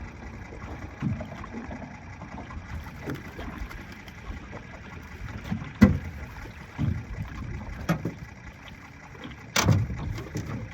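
Wind and choppy water against a jon boat, with uneven low thumps of waves slapping the hull. There is a sharp click about halfway through and a louder knock near the end.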